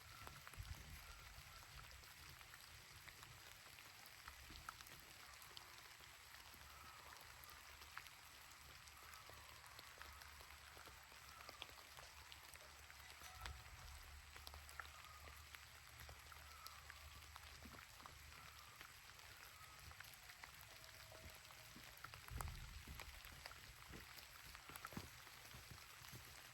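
Faint rain pattering, with many separate drops ticking throughout.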